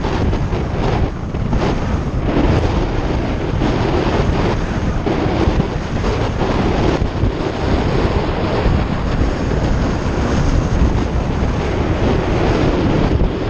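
Wind buffeting the microphone of a moving bike, a steady rough rumble with constant gusty fluctuations.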